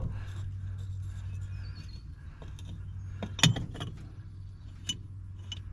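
Scattered metallic clinks of hand-tool work on a truck, with one sharp clink about three and a half seconds in, over a steady low hum.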